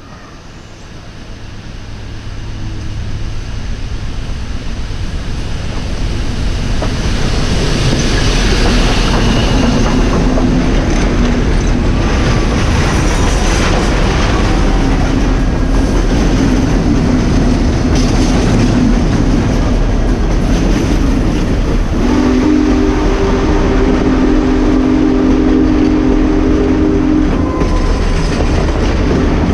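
Union Pacific's "Big Boy" 4-8-8-4 articulated steam train approaching and passing close by. It grows louder over the first several seconds, then carries on as a steady loud rush of running gear and wheels on rail. A long multi-note whistle chord sounds about three-quarters of the way through.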